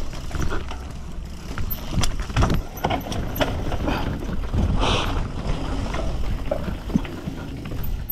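Mountain bike riding down a rough trail: wind rumbling on the microphone, with frequent sharp clatters and knocks as the bike rattles over bumps.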